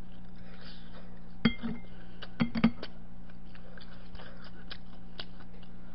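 A person chewing a mouthful of food close to the microphone, with a few sharp clicks about one and a half and two and a half seconds in, over a steady low hum.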